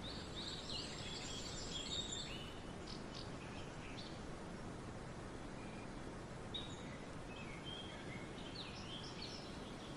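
Small birds chirping in short high calls over a steady outdoor hiss, in a cluster during the first couple of seconds and again in the last few seconds.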